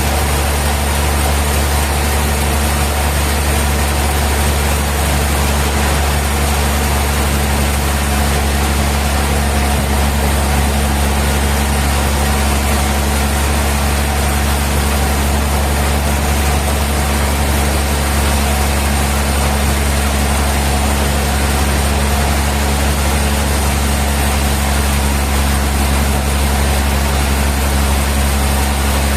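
Sawmill machinery running steadily: a heavy engine or motor with a low, even hum.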